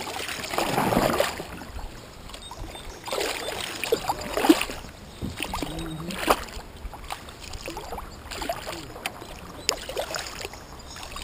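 Kayak paddle strokes splashing in river water, irregular and a second or more apart.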